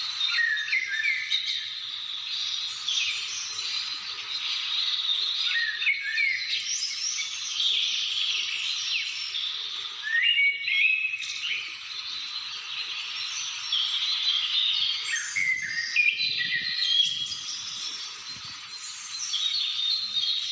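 Many birds singing and calling at once: a dense chorus of overlapping chirps and short whistled notes, rising and falling in pitch without a break.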